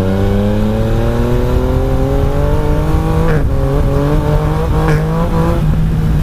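Yamaha Tracer 900 GT motorcycle's three-cylinder engine accelerating under way. Its pitch rises steadily, drops with a quick upshift about three seconds in, climbs again, and drops with a second upshift near the end.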